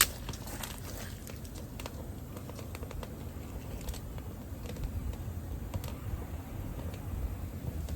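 Irregular light clicks and taps, with one sharp click at the start, over a steady low rumble.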